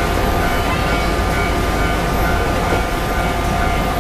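Steady low rumble and hum of electric trains in a station, with a faint steady tone and no sudden noises.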